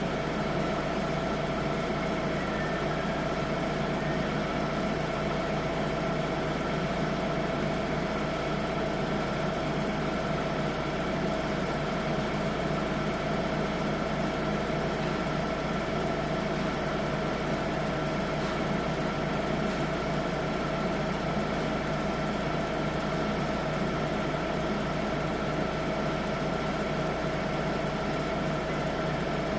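Holder C70 tractor engine running at a steady idle, with an even hum that does not change.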